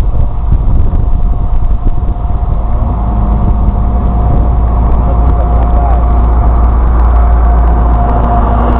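Plow truck's engine running steadily with a deep, continuous rumble and a faint steady whine above it.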